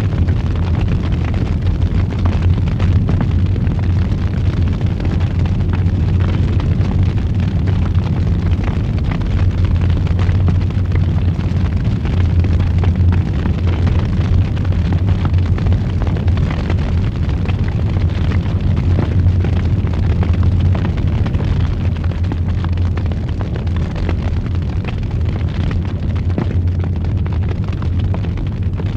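Fire burning in a fireplace: a steady low rumble of flames with constant fine crackling, easing off a little near the end.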